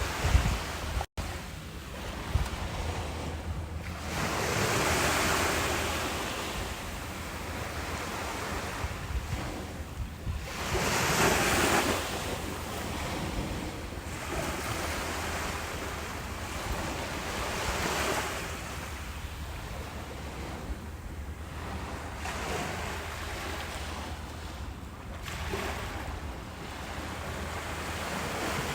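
Ocean surf breaking and washing up a beach, a hiss of water that swells and fades every few seconds; the biggest wash comes about eleven seconds in.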